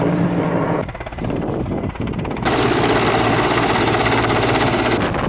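Helicopter running: a steady drone of engine and rotor with a high whine. The sound changes abruptly about a second in and again past two seconds, as separate short clips are cut together.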